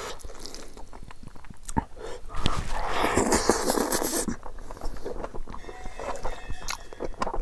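Close-up eating sounds of a man eating curry and rice by hand: wet chewing and mouth smacks in quick short strokes, with a louder, longer stretch about two and a half to four seconds in.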